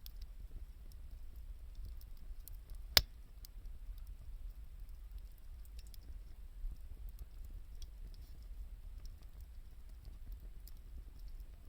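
Wood fire crackling with small scattered pops and one sharp, loud pop about three seconds in, over a steady low rumble.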